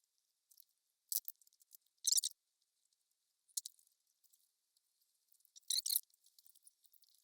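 Four short, high scraping strokes of a hand gasket scraper cleaning old gasket off the fuel pump mounting surface of a Chevy 350 small-block, preparing it for a new gasket.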